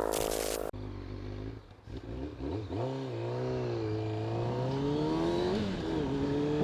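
Music cut off abruptly under a second in, then a Kawasaki ZZR600's inline-four engine accelerating, its pitch climbing steadily with a brief dip near the end.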